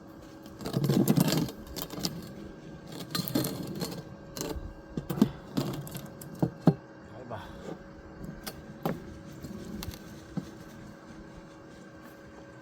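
Irregular knocks, clicks and clatter of materials being handled, with a louder brief rustling burst about a second in and a faint steady hum underneath.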